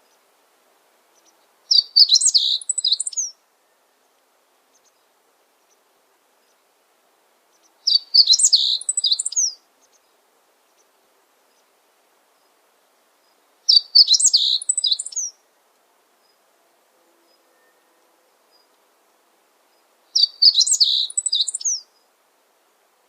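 A songbird singing the same short, quick, high-pitched phrase four times, about six seconds apart, each phrase lasting under two seconds.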